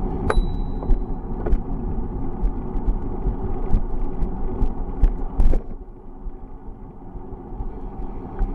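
Wind rumbling on the microphone over road noise while riding a bicycle, with scattered clicks and rattles. A short high ring sounds near the start, a brief hiss comes about five seconds in, and the rumble eases for a couple of seconds after it.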